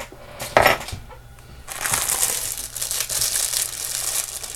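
Thin plastic jewelry bag crinkling as it is handled and opened, with a sharp rustle about half a second in and steady crinkling from about two seconds in.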